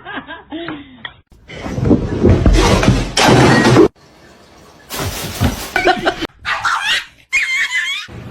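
A loud clattering crash lasting about two seconds, then a few short, high cat meows near the end.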